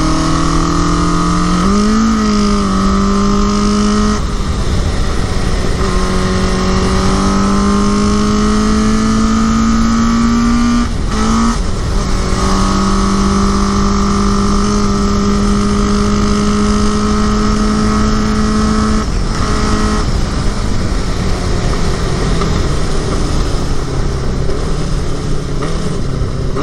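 1981 Honda CB750's air-cooled inline-four engine running under way, pulling with its pitch slowly climbing. The pitch breaks briefly about halfway through and again about two-thirds through, then falls as the bike eases off near the end. The engine is running well after sitting all winter.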